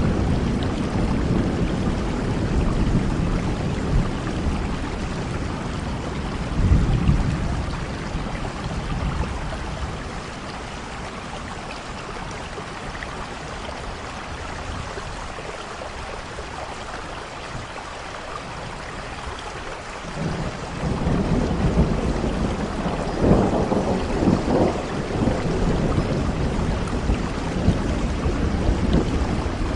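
Heavy rain falling steadily, with rolling thunder rumbling low underneath. The rumble dies away in the middle, and a new peal builds about two-thirds of the way through.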